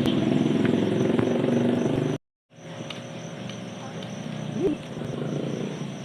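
Kuliglig insect call: a steady, shrill, pulsing buzz. For the first two seconds it is mixed with a louder low hum and other noise. A short cut to silence follows, then the shrill pulsing buzz carries on alone, somewhat quieter.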